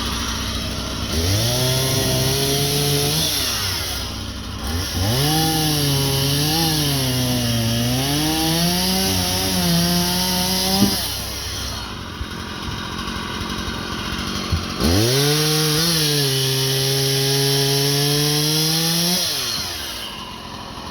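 Husqvarna chainsaw revved up to cutting speed, held, then let back down to idle, three times, cutting into overhanging wood.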